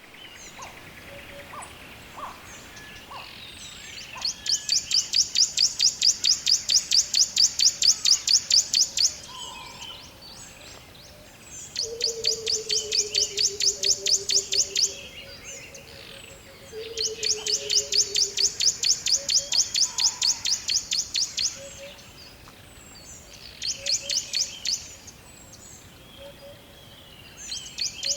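A bird singing a fast, high trill of evenly repeated notes, about ten a second, in spells of several seconds that come back five times. Fainter bird calls sound between them, along with a low, drawn-out falling note heard twice in the middle.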